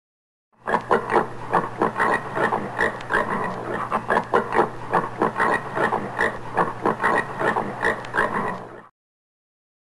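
Common warthog grunting in a fast, unbroken run of short grunts, several a second, over a low steady hum; it starts about half a second in and stops about a second before the end.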